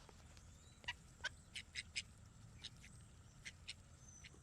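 Poultry making a faint, irregular run of about eight short, sharp sounds, bunched in the first half and thinning out toward the end.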